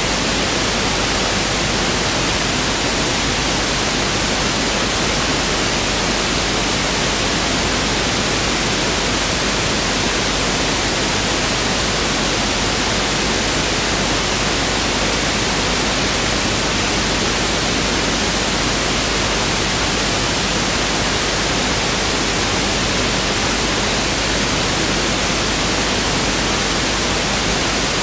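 Pink noise test signal: a steady, even hiss spread over all frequencies, with no change.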